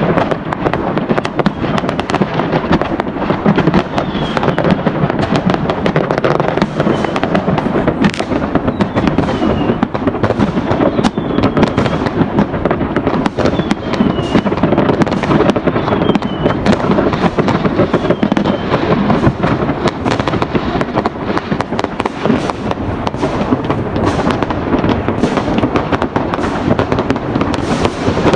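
Many fireworks and firecrackers going off at once in a continuous barrage of bangs and crackles. Several short whistles fall in pitch over the middle of the stretch.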